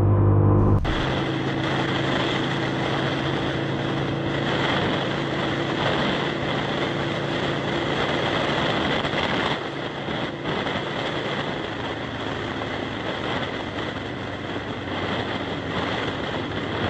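An engine's revving sound cuts off under a second in. It is replaced by a steady rush of wind on the microphone with a vehicle's running drone beneath, as from a motorcycle moving at speed.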